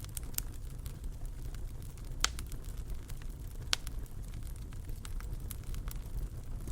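Wood fire burning in a fireplace: a steady low rumble of the flames with scattered sharp crackles and pops, two louder pops a little past two seconds in and near four seconds.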